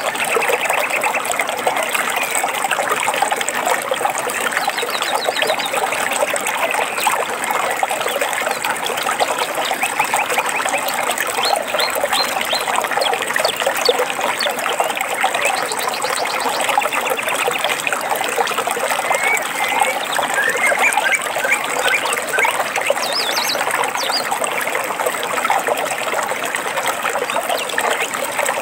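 Steady running water of a stream, trickling and splashing, with small birds chirping and trilling over it every few seconds.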